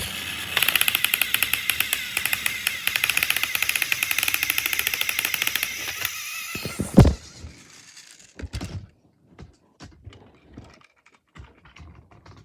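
Motorized Thomas & Friends toy engines running against each other with a fast, even clicking of gears and wheels for about six seconds. A loud knock follows, then scattered small knocks and clatter of plastic toys being moved.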